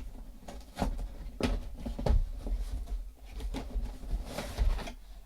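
Irregular clicks, knocks and rustles of a boxed motorcycle alarm kit and its packaging being handled and opened, with a louder knock about two seconds in and a rustle near the end.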